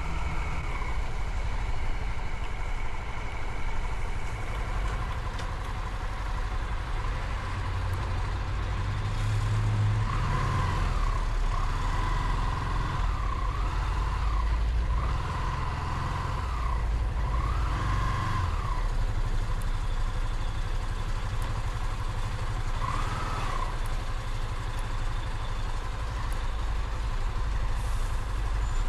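Motorcycle riding along with a steady low engine rumble and wind noise. Partway through, a whining tone rises and falls about five times in a row, then once more a few seconds later.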